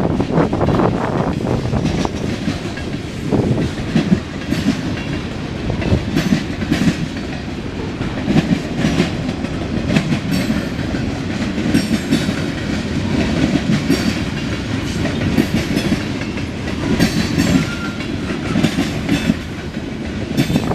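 Freight cars of a CSX mixed freight train rolling past: a steady rumble of steel wheels on rail with frequent sharp clicks over the rail joints.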